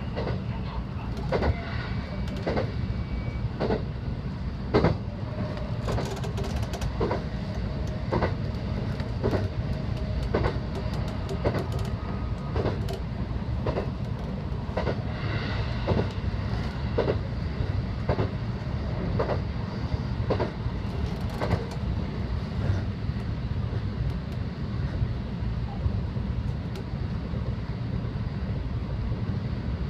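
Electric local train running at speed, heard from inside the train: a steady rumble with the wheels clacking over rail joints about once a second, the clacks fading out after about twenty seconds.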